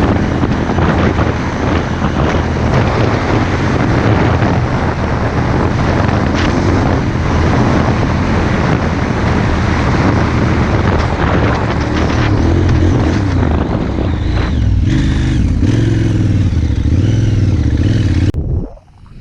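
KTM 990 Adventure's V-twin engine running under way with heavy rushing noise over it; in the last few seconds the engine note rises and falls with the throttle, and the sound drops away abruptly near the end.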